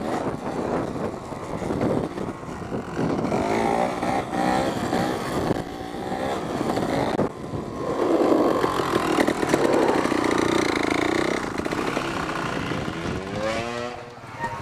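Dirt bike engine revving up and down as it is ridden off-road, its pitch rising and falling with the throttle, climbing again shortly before the end.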